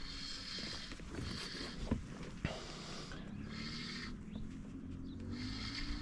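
Fishing reel being wound in during a fight with a hooked pike, its winding hiss coming in short spells about once a second, with two knocks about two seconds in.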